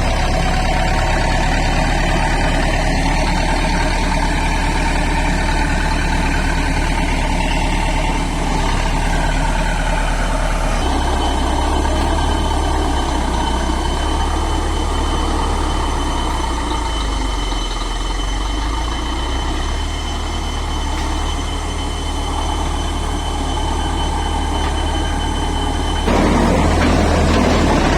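Heavy construction machinery engine running steadily with a deep hum. The sound changes abruptly about a third of the way in and again near the end, and a thin steady high whine is heard in between.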